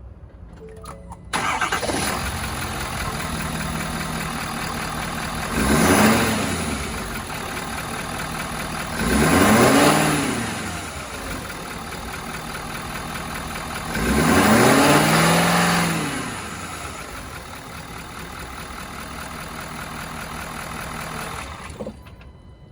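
Ford F-550 truck engine starting about a second in and idling steadily. It is revved three times, each rise and fall lasting about two seconds, and cuts off suddenly near the end.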